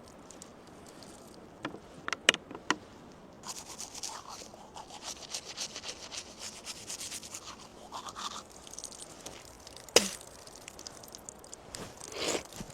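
A few light knocks, then several seconds of steady scraping. A single sharp knock comes about ten seconds in, and a short scrape follows near the end.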